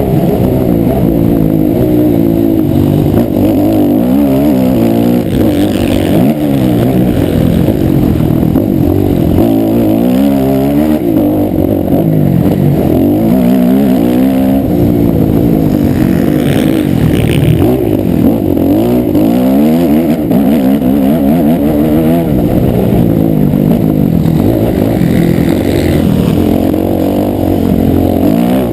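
Motocross motorcycle engine running loud and continuously, its pitch rising and falling again and again as the throttle is opened and eased off.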